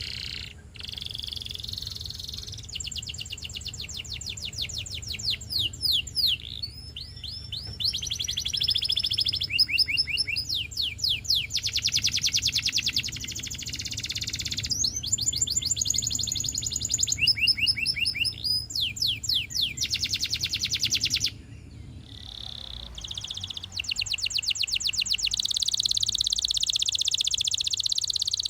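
Domestic canary singing a Russian-style song: fast trills and rolls, each a rapid run of repeated high notes lasting a second or two before switching to another phrase, with a short break about three-quarters of the way through.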